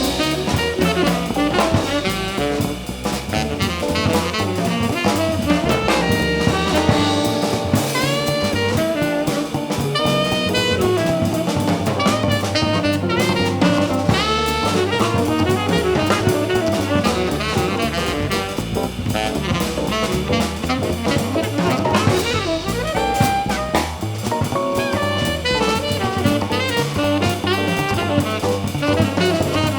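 Live jazz combo playing: a horn plays quick melodic runs over drum kit and a steady bass line.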